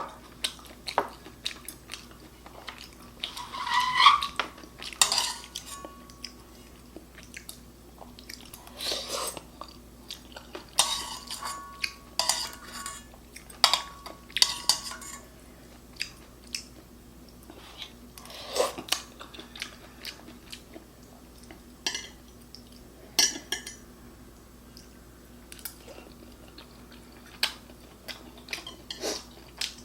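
Eating sounds of ramen noodles and fried bacon close to the microphone: utensils clicking and clinking against a bowl, with chewing between, as scattered short sounds throughout.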